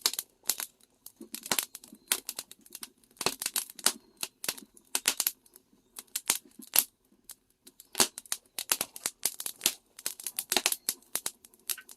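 Firewood crackling and popping in the fire under an iron cauldron: irregular sharp snaps, several a second, over a faint low hum.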